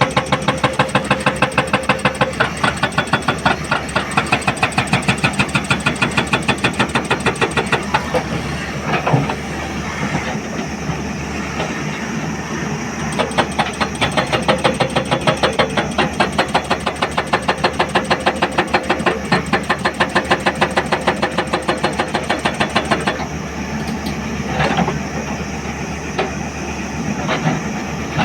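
Hydraulic rock breaker on a Hyundai 210 excavator hammering rock with rapid, evenly spaced blows, several a second, over the excavator's running diesel engine. The hammering stops twice, for a few seconds about a third of the way in and again near the end, leaving the engine running.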